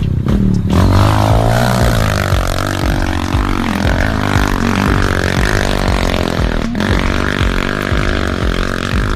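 Motocross bike engine revving up and down repeatedly, over background music with a steady beat.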